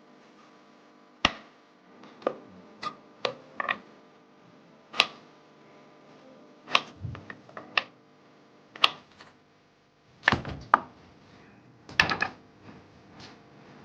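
Kitchen work: about a dozen irregular sharp knocks and clacks of objects set down and handled, with pauses between them.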